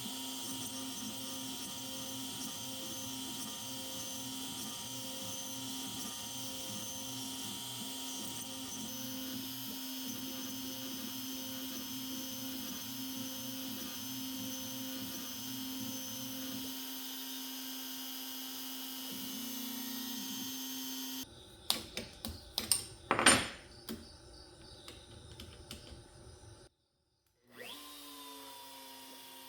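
Spindle of an X-Carve CNC router running steadily while milling cherry wood. About two-thirds of the way in it gives way to a run of sharp knocks and clatters, one much louder than the rest. After a brief silence, a motor spins up with a short rising whine near the end.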